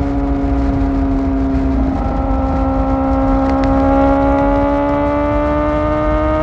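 Kawasaki ZX-4R's inline-four engine through an Akrapovic exhaust, running at steady high revs under way. After a brief wobble about two seconds in, the pitch climbs slowly as the bike accelerates.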